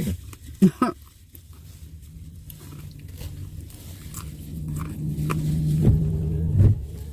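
Mouth-close chewing and biting sounds of someone eating, with a sharp click about half a second in. Under it runs a low, steady hum that swells toward the end.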